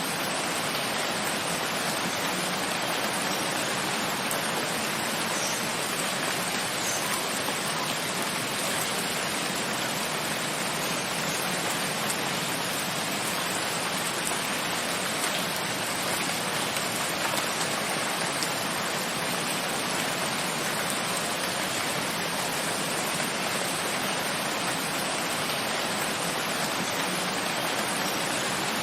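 Steady, even rain falling, a dense hiss with faint scattered drop ticks.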